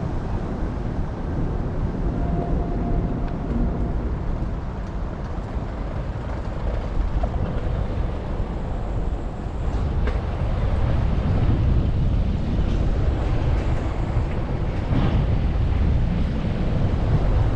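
Wind buffeting the microphone of a bike-mounted GoPro Hero9 while cycling, a steady low rumble that grows louder about ten seconds in.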